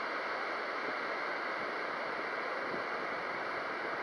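Steady rushing hiss of strong wind, even throughout with no distinct strokes.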